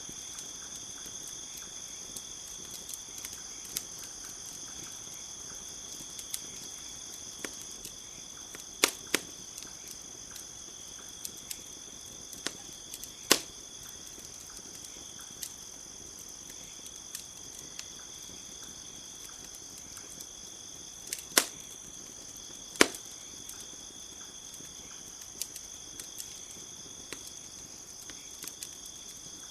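Wood campfire crackling, with scattered sharp pops; the loudest come about 9, 13, 21 and 23 seconds in. Behind it, crickets trill steadily at a high pitch.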